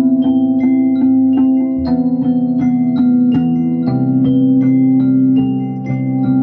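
Handpans (hang drums) played as melodic percussion: a steady run of struck steel notes, about three a second, each ringing on over a sustained low tone.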